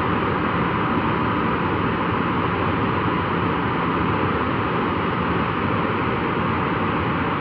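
Boeing 737-400's CFM56-3 turbofan engine running at a steady power during a ground engine run: a loud, even rush of jet noise with a faint steady whine near the top of its tone.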